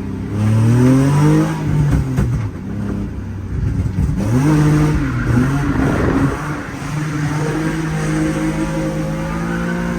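BMW E36 M3's straight-six engine revving up and falling back twice, then settling into a steady, even run for the last few seconds.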